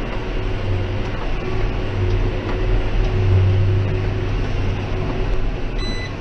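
John Deere 6190R tractor running steadily under load while baling, heard as a low drone inside the cab. Near the end a short high beep sounds, the tractor's signal that the transmission is coming down a gear.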